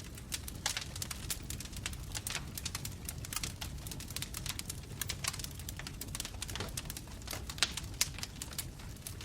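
Bonfire crackling, with many irregular sharp pops and snaps over a steady low rumble of the flames.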